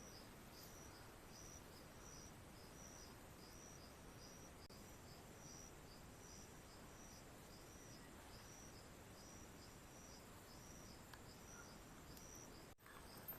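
Faint insect chirping, probably crickets: a high, even chirp repeating about twice a second over quiet forest hiss, breaking off briefly near the end.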